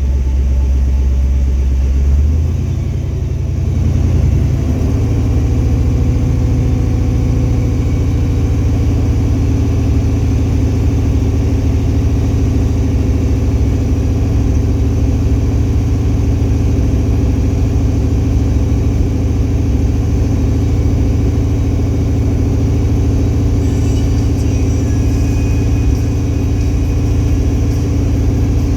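Truck engine running during a winch recovery pull, stepping up from a low idle to a higher steady speed a few seconds in and holding there.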